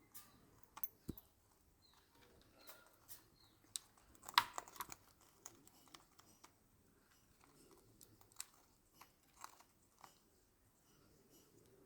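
Pet parrot's beak nibbling and crunching at food: scattered small clicks and crunches, with the loudest cluster about four seconds in.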